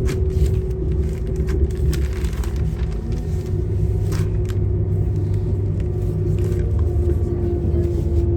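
Passenger train heard from inside the carriage: a steady low rumble with a steady engine hum over it and a few light clicks.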